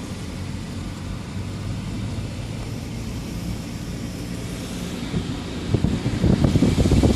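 Car driving, heard from inside: steady engine hum and road noise, turning into a louder, uneven low rumble about six seconds in.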